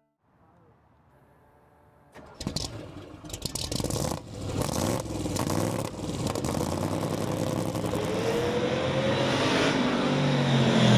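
Supercharged V8 of a 1958 Corvette, fed by two Holley carburetors, firing up suddenly about two seconds in with a ragged burst, then running and revving, its pitch rising toward the end.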